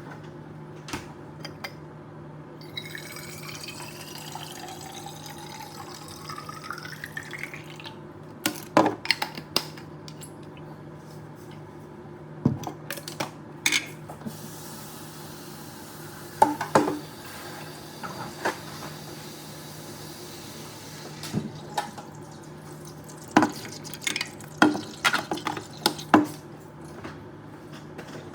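Liquid poured into a container, its pitch rising as it fills, followed by a series of short clinks and knocks. A steady low hum runs underneath.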